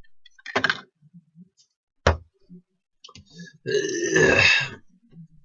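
Two sharp knocks, then a loud, rough vocal sound lasting about a second.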